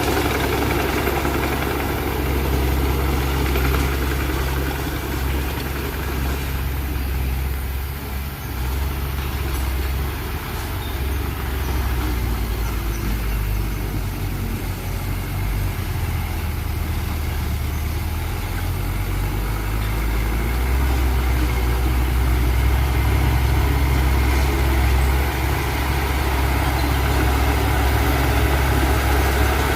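A heavy diesel engine of earth-moving machinery running steadily with a low hum, dipping slightly in level about 8 and 10 seconds in.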